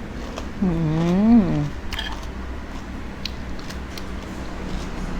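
A person's drawn-out voiced sound lasting about a second, starting about half a second in, its pitch dipping, rising and then falling. Under it run a steady low hum and a few faint clicks.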